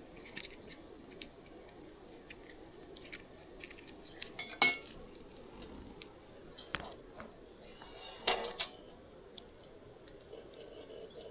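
Scattered light clinks and knocks of cutlery and dishes being handled, with one sharper clink near the middle and a few quick knocks later on.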